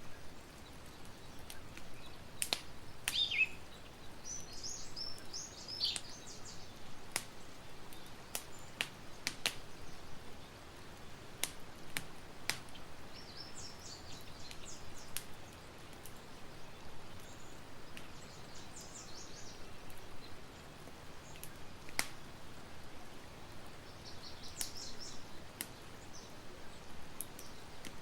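Campfire crackling with irregular sharp pops, while small birds chirp in short runs of high notes several times.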